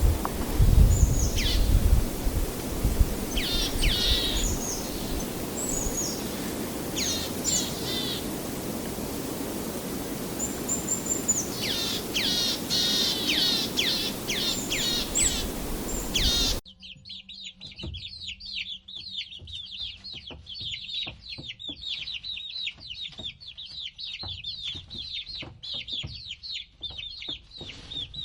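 Birds calling: first a series of sharp, quickly falling whistled notes over wind-like rumble, then, after an abrupt cut about two-thirds of the way in, a different recording of continuous rapid chattering chirps.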